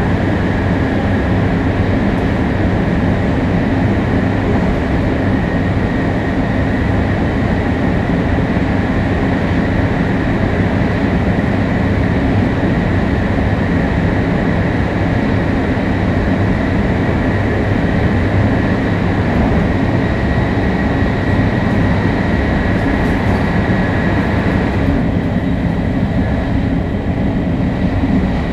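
Shinkansen 500 series high-speed train running at speed: a steady rumble and rush of running noise with a faint steady whine. About 25 seconds in, the hiss in the upper range eases.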